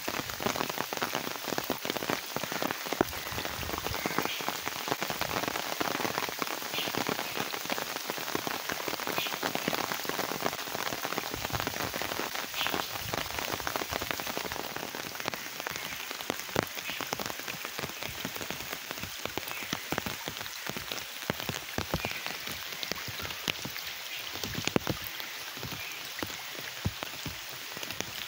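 Steady rain falling on puddles and wet ground, with many close, sharp drop hits over an even hiss.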